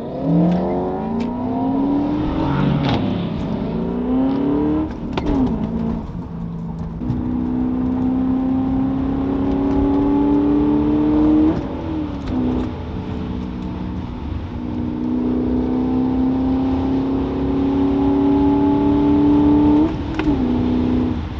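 BMW M5 engine accelerating through the gears: its pitch climbs steadily, then drops sharply at each upshift, several times over.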